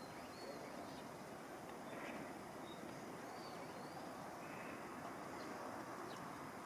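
Faint steady outdoor rush with a few brief, high-pitched bird chirps scattered through it.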